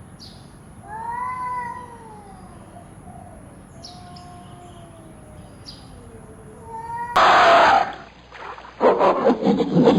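Animal calls: one louder call with an arching pitch about a second in, then fainter long, falling calls. About seven seconds in the sound cuts abruptly to a loud, noisy passage, followed by loud, harsh, irregular calls near the end.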